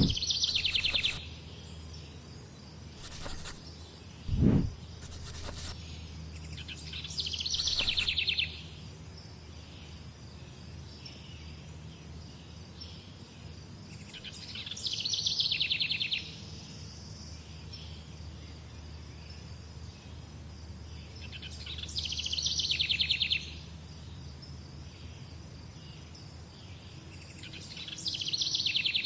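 A songbird singing a short, rapid trill, repeated about every seven seconds over a steady low background hum. A single low thud about four and a half seconds in.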